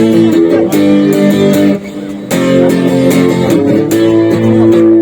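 Guitar strumming chords in an instrumental passage between sung lines, with the chord changing twice and a brief softer moment about two seconds in.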